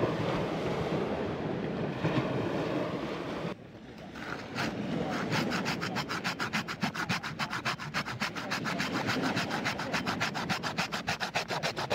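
Hand saw cutting through a stick of firewood with quick, even rasping strokes, starting about five seconds in, over wind and surf.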